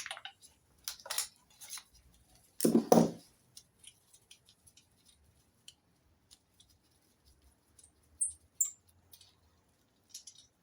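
Scattered metal clinks and taps of hand tools and parts as the exhaust manifold is worked off an MGB engine, with one louder clunk about three seconds in.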